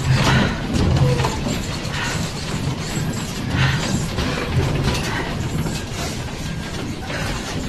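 A building creaking and rattling as it shakes in a magnitude 7.0 earthquake, with a low rumble under irregular rattles about once a second.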